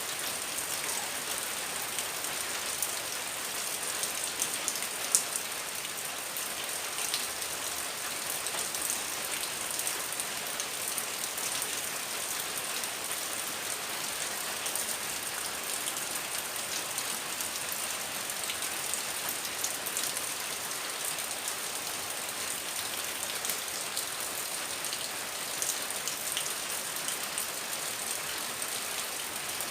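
Heavy rain falling steadily, a constant hiss with scattered sharper drop ticks.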